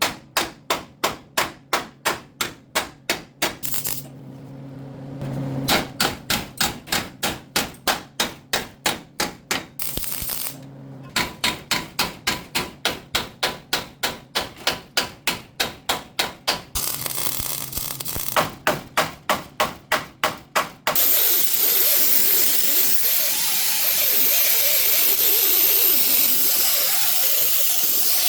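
Repeated hammer blows on metal, about three a second, in several runs with short pauses between them. About 21 seconds in they give way to a steady, loud rushing noise from a shop tool.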